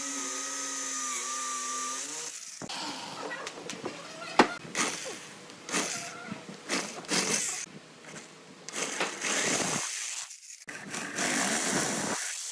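Power tool working wood in uneven passes, after a steady hum at the start, with one sharp knock about four and a half seconds in.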